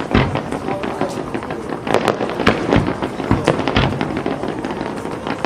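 Fireworks display: a rapid, irregular series of bangs and crackles, several a second, over a steady background rumble.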